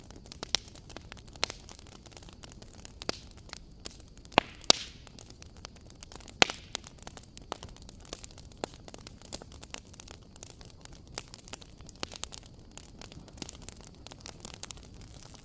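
Wood fire crackling in a fireplace: a low steady hiss with irregular sharp pops and snaps, the loudest a few seconds in.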